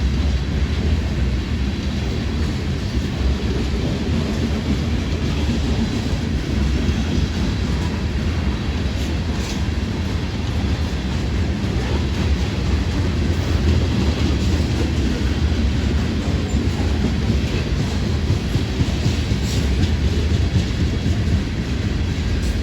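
Train rolling past close by: a steady, loud rumble of wheels on the rails, with a clatter from the cars.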